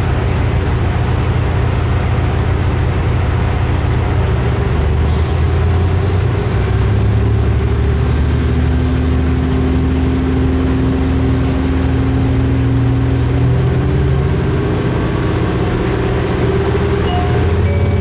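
Diesel railcar running, a steady low engine drone with its pitch shifting slightly partway through.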